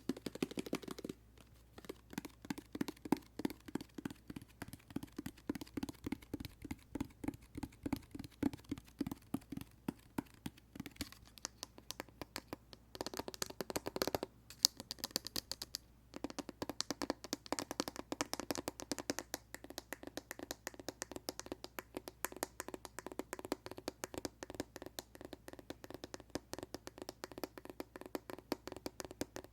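Rapid fingertip tapping on a hand soap dispenser bottle: many light taps a second in a quick, uneven rhythm, with a short denser, scratchier flurry about thirteen seconds in.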